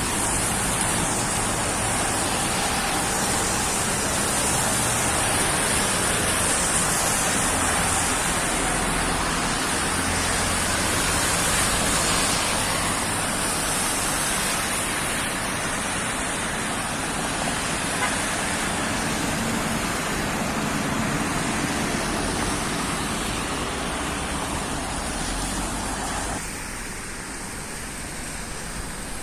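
Rain falling, a steady hiss mixed with the noise of traffic on wet roads; it becomes quieter near the end.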